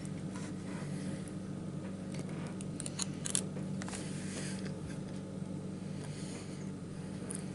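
A person chewing a mouthful of chocolate pie, with a few small clicks and scrapes about two to three and a half seconds in, over a steady low hum.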